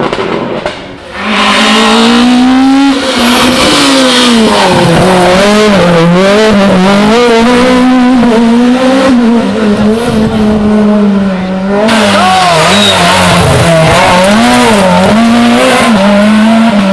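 Rally car engine revving hard, its pitch rising and falling again and again as the driver works the throttle and gears through the stage, coming in loud about a second in.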